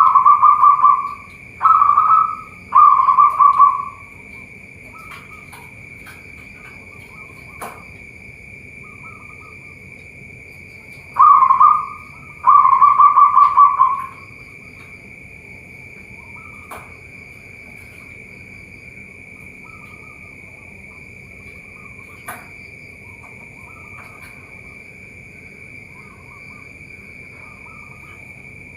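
Zebra dove (perkutut) cooing in short phrased bouts: three coo phrases at the start and two more about eleven seconds in, with softer calls in between. A steady high-pitched whine runs underneath.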